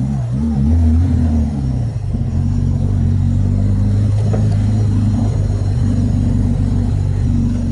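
Renault Clio 2 RS's 2.0-litre four-cylinder engine running on track, recently rebuilt. Its pitch wavers for the first couple of seconds, then holds steady.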